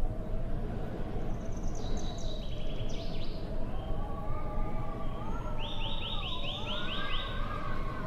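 Small birds chirping over a steady low wind rumble: a cluster of high chirps about two to three seconds in, then a quick trill of about eight notes near the end. A wavering hum that rises and dips in pitch runs underneath in the second half.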